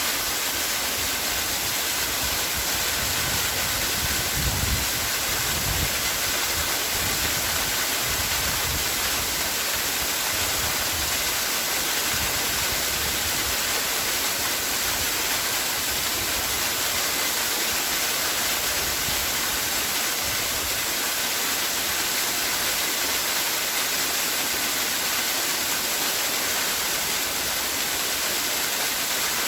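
Waterfall: a steady rush of falling water, with some deeper rumbling in the first few seconds.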